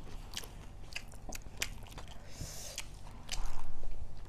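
Close-miked eating sounds: chewing and biting food, with many short wet mouth clicks and smacks. A low, dull rumble for under a second about three seconds in.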